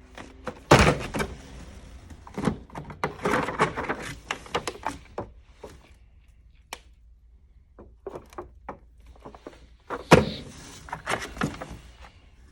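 A run of knocks, clicks and rattles, with two loud thuds, one about a second in and one about ten seconds in.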